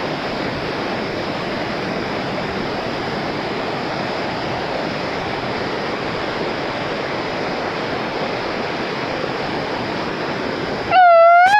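Waterfall: rushing, splashing water making a steady noise. Near the end, a short, loud high-pitched call cuts in over it.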